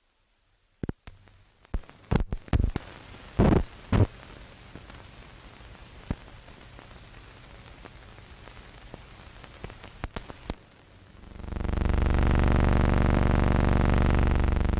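Hiss and crackle of an old optical film soundtrack, with a run of loud pops and clicks in the first few seconds and a few more later. About eleven seconds in a loud, steady, sustained tone with many overtones comes in and holds.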